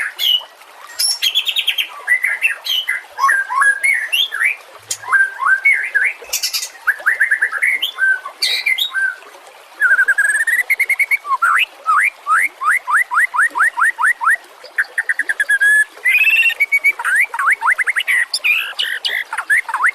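White-rumped shama singing a varied song of clear whistles, chirps and fast trills with only brief pauses, including a run of quickly repeated rising notes about halfway through.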